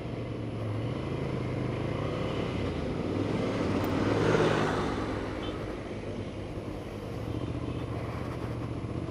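Motorcycle engine running steadily on the move, with road and wind noise. Another vehicle passes about four seconds in, the loudest moment, then fades.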